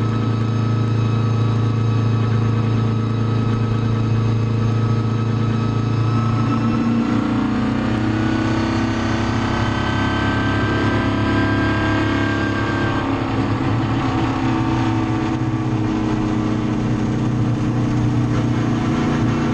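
Street-legal NASCAR truck's engine running under way. It hums steadily, and its pitch climbs slowly partway through as it picks up revs.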